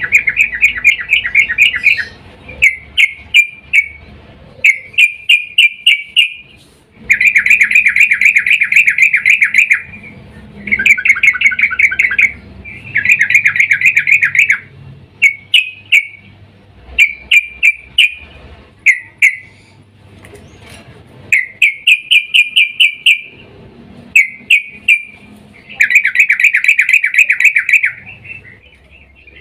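Female yellow-vented bulbul (trucukan) calling for a male: a long run of loud bursts of fast, chattering, repeated notes, each burst a second or two long, with short pauses between.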